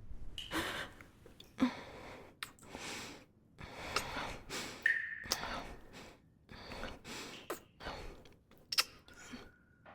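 Close-miked kissing: soft lip smacks and mouth sounds mixed with breaths and small gasps.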